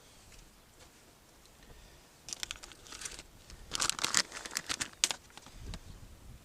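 Crinkling and crackling, a run of sharp rustles lasting about three seconds, starting about two seconds in.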